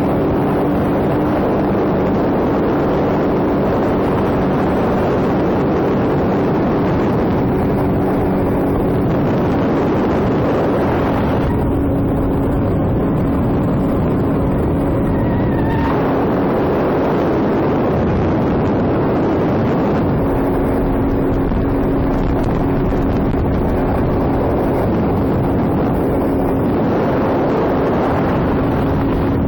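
Sea-Doo jet ski engine running steadily at cruising speed, a constant engine drone under the rush of wind on the microphone. The hiss eases for a few seconds around the middle, then returns.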